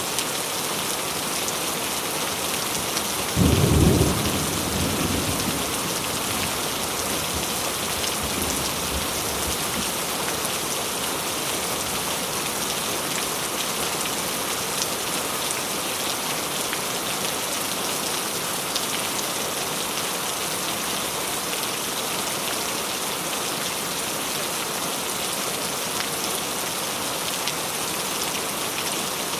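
Steady tropical rain falling heavily. About three and a half seconds in, a sudden clap of thunder rumbles and fades over the next couple of seconds, with a fainter rumble a few seconds later.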